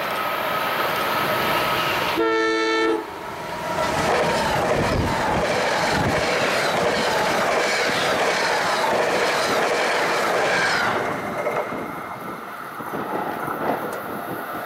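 NJ Transit stainless-steel electric multiple-unit commuter train giving one short horn blast about two seconds in, then passing close by with a loud rush of rhythmic wheel clatter. The noise dies away over the last few seconds.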